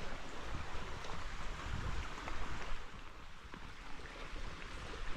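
Creek water running steadily over rocks, with a low rumble underneath.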